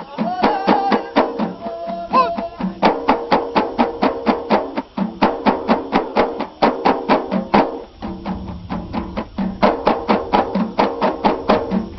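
Ahidous music: a fast, steady beat of frame drums and hand claps, about four to five strokes a second, with a group of voices chanting over it.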